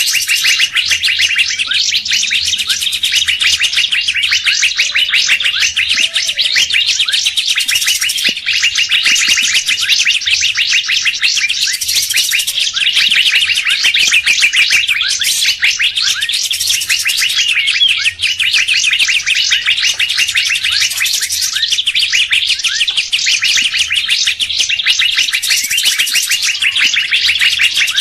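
Mixed songbird lure calls: dense, fast chirping and chattering from several birds, with a brighter, shriller burst about every four to five seconds.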